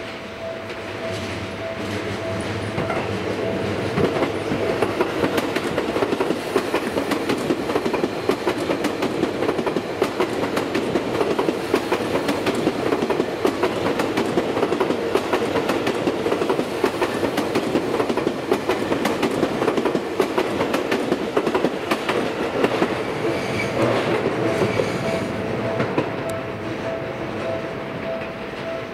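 Seibu 40000 series electric train running past, its wheels clicking rapidly over the rail joints above a steady rumble. The sound builds over the first few seconds and eases off near the end.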